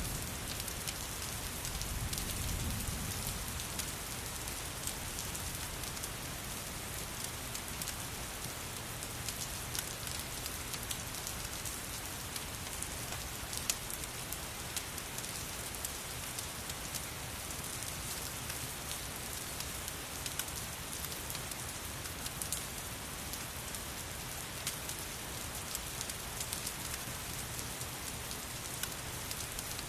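Steady rain, a dense even hiss with scattered sharp ticks throughout, and a brief low rumble about two seconds in.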